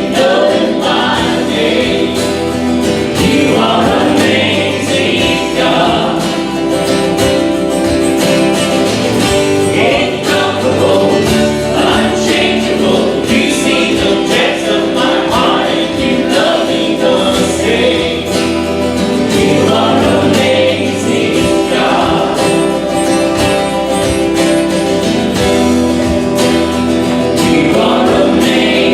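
Many voices singing a hymn together to an instrumental accompaniment, with held notes changing every second or so.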